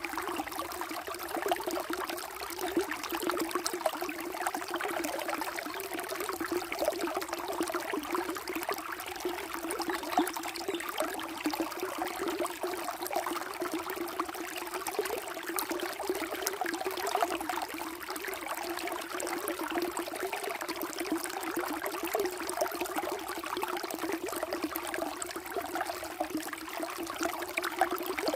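Flowing water running steadily, a continuous trickling, splashing rush with no let-up.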